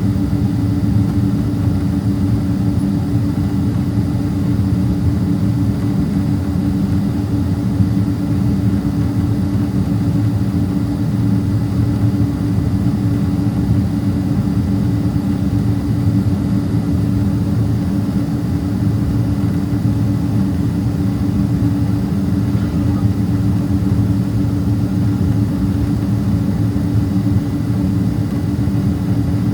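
Steady cabin drone of a Boeing 767-300ER taxiing with its engines at idle: a constant low rumble with a steady hum on top.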